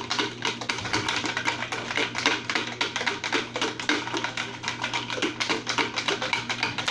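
Folded paper slips shaken inside a lidded bucket: a fast, continuous rattle of many small clicks and taps.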